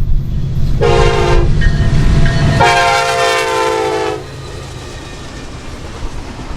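Norfolk Southern freight locomotive's air horn sounding a short blast, then a longer one about two seconds in, over the heavy rumble of the train. The rumble falls away as the long blast begins, and the horn cuts off about four seconds in, leaving a quieter background.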